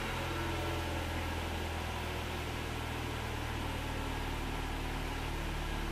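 A Ford car's engine idling steadily just after being started, heard from inside the cabin as an even low hum.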